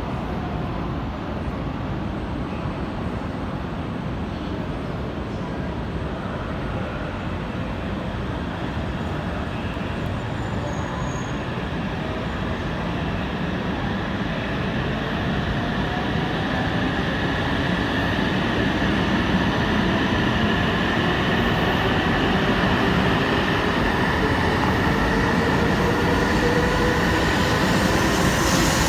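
E2 series Shinkansen train pulling away from a station. From the middle onward, its motor whine rises slowly in pitch and grows louder as it gathers speed, over a steady rolling noise.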